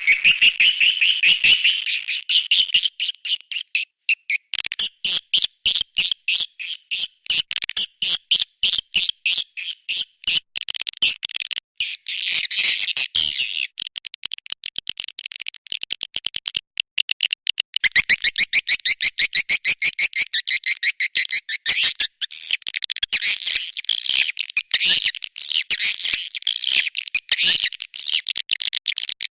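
Swiftlets twittering: a dense, continuous stream of rapid high chirps, with only brief breaks. This is the kind of call recording played to lure swiftlets into a nesting house.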